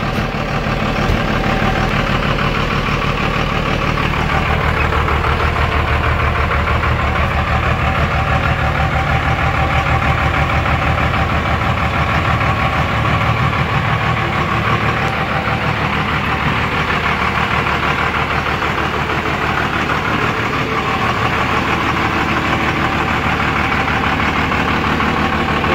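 Twin-turbo 5.9 L 24-valve Cummins diesel, fitted with an upgraded VP44 injection pump, running steadily at an even speed with no revving.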